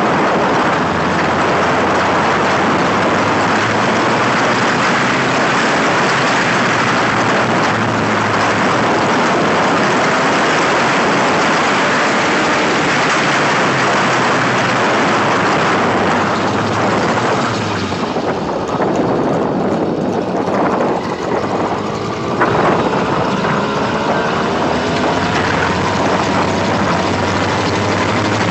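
Motorized bicycle's small engine running under way, mostly buried under wind rush on the microphone. About two-thirds of the way through the wind drops and the engine's note is heard rising and falling in pitch as the throttle changes.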